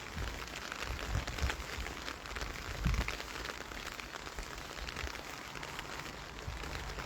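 Steady rain falling, a fine even hiss of drops, with a few soft low thuds near the microphone.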